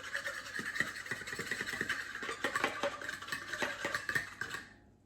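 Whisk stirring briskly in a large mixing bowl holding a little yeast water: a fast, scratchy clatter of small ticks that stops shortly before the end.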